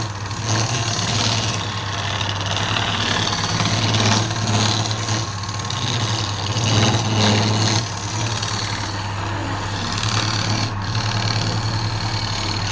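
Wood lathe running with a steady motor hum, and a turning tool cutting the spinning wood, the cutting noise swelling and easing every second or two.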